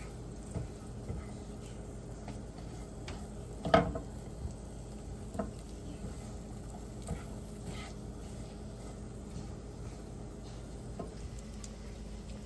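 Kitchen cooking sounds: a steady low hum with scattered light clicks and taps of utensils, the sharpest tap a little under four seconds in.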